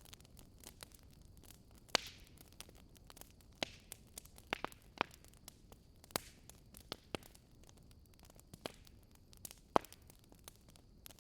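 Wood fire burning, crackling with irregular sharp pops and snaps over a faint hiss, the loudest pops about two seconds in and near the end.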